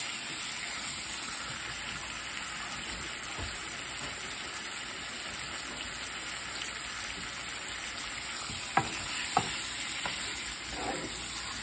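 Beef liver and onions sizzling steadily in a frying pan, stirred at times with a wooden spoon. Two sharp knocks a little over half a second apart come about three-quarters of the way through.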